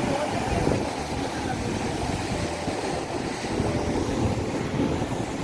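Steady rumble of wind buffeting the microphone, with a faint hum of distant activity underneath.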